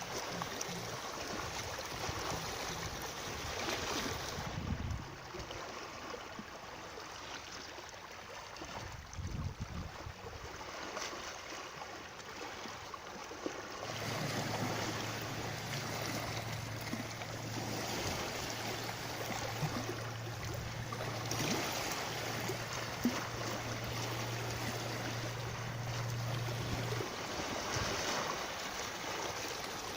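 Steady rushing of running water, a natural outdoor water sound. A low steady hum comes in about halfway through and stops a few seconds before the end.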